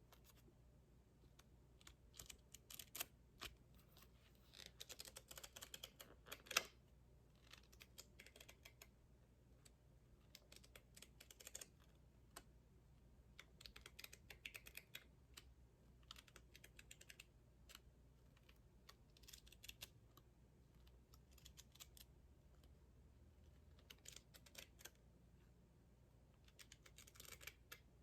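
Faint, irregular light tapping, clicking and rustling from hands handling a milk frother and its cardboard packaging. The sounds come in scattered clusters, with one sharper click about six and a half seconds in.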